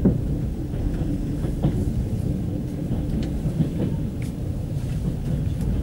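Passenger train running, heard from inside the carriage: a steady low rumble of wheels on track with scattered irregular clicks.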